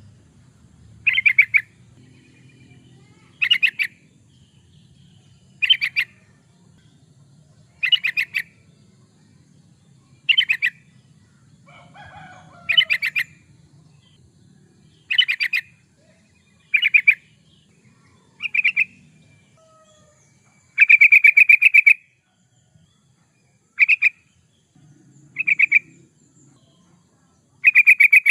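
Yellow-vented bulbul (trucukan) singing: short, bubbly chattering phrases repeated about every two seconds, with one longer phrase about two-thirds of the way through.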